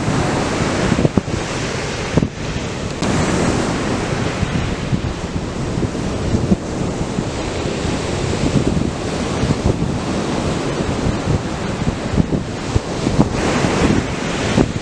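Atlantic surf breaking and washing up the beach in a steady wash, with wind buffeting the microphone in low rumbles.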